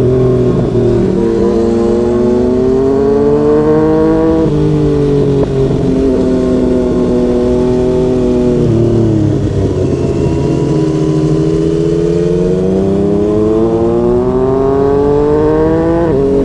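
2020 Yamaha MT-09's three-cylinder engine through a Yoshimura R55 slip-on exhaust, accelerating under load. Its pitch climbs and then drops sharply at each gear change, about four seconds in, again near the middle and once more near the end, over steady wind and road noise.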